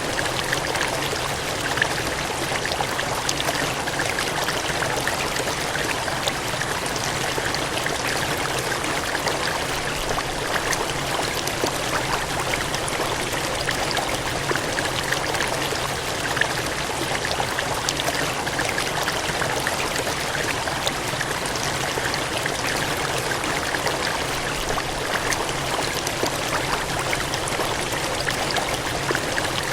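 Gushing, cascading water running steadily, a constant rushing wash with small splashy flickers.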